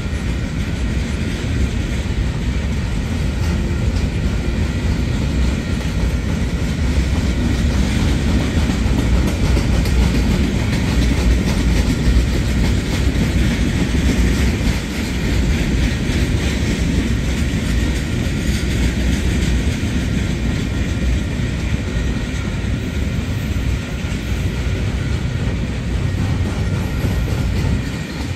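Freight train of loaded flatcars rolling past at steady speed: a continuous low rumble of steel wheels on the rails.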